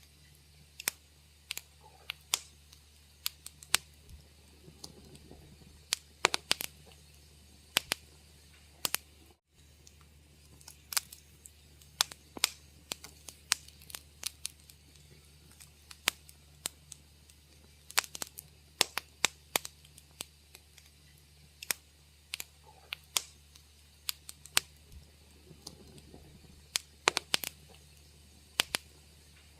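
Wood fire crackling in a fireplace: irregular sharp pops and snaps, several a second at times, over a faint steady low hum. The sound drops out for a split second about nine and a half seconds in.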